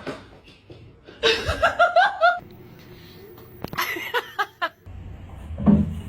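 A person laughing in short, rhythmic bursts, twice.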